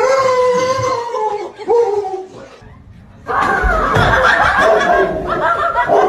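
Loud laughter in two bouts: a held, slowly falling cry at the start, then a longer, busier burst from about three seconds in.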